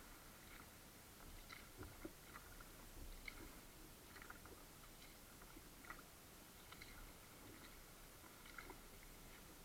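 Near silence on the water: faint, irregular small ticks and drips from a kayak and its paddle, with water lapping lightly at the hull.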